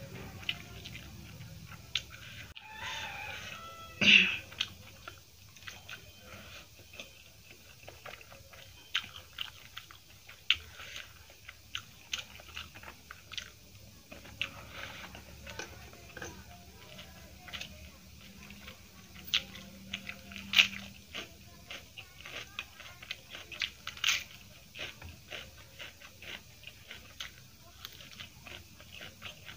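Close-miked eating sounds of a person chewing a mouthful of rice and egg curry, with many small irregular wet clicks and smacks. One louder sound comes about four seconds in.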